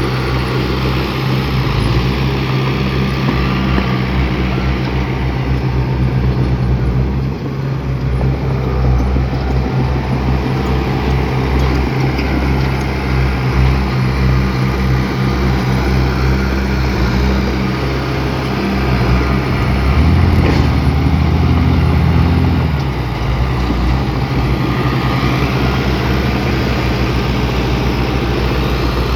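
Heavy diesel engine of a bulldozer running steadily while working. It grows louder for a couple of seconds about two-thirds of the way through, then settles back.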